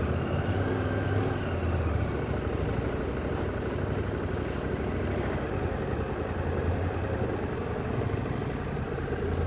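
Motorcycle engine running steadily at low speed or idle, a low, even hum with no revving.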